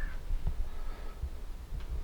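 Low, uneven outdoor rumble with a few faint thumps, and one brief high call right at the start.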